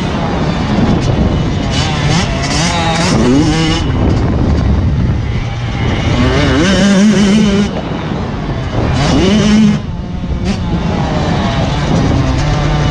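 Motocross bikes running hard: engine pitch climbs through the revs and drops back at each gear change, several times over, with more than one bike heard at once.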